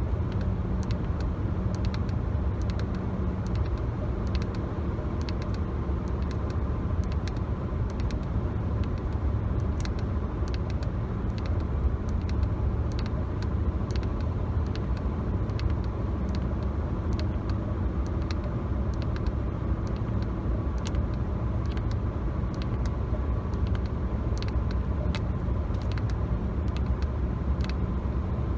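Steady road rumble inside a moving car's cabin, with many light, irregular clicks over it: fingernails tapping and scratching on the car's interior surfaces.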